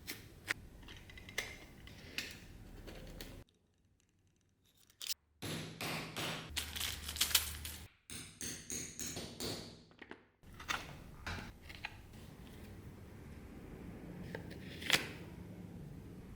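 Bench handwork: scattered clicks, then a quick run of short, crisp cutting or snipping strokes, broken up by abrupt edits.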